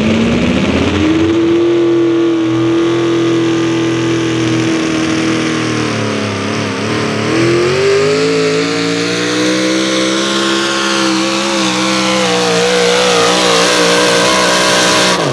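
A 4x4 pulling truck's engine at full throttle pulling the sled: the pitch rises as it launches, holds steady, dips about seven seconds in, climbs again, and cuts off abruptly near the end as the pull ends.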